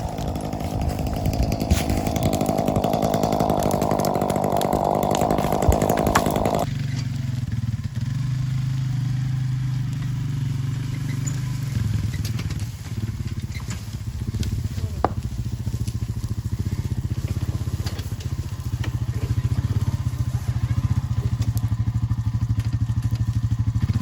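A chainsaw runs for the first six seconds or so. The sound then switches suddenly to a lower, steady engine running, with a few sharp knocks along the way.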